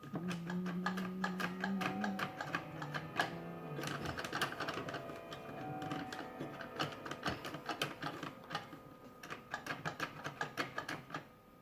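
The talking Raggedy Ann & Andy coin bank's mechanism being tested, clattering with rapid clicks and rattles. A low steady drone runs through the first four seconds. It still doesn't talk properly, which the repairer puts down to a dirty, old electrical connection.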